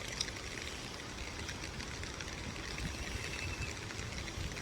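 Steady hiss of falling water from the waterfall and continuous rain. A faint thin high tone sounds through the middle.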